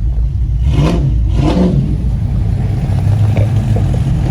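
Car engine with a steady low rumble and two short revs, about a second and a second and a half in.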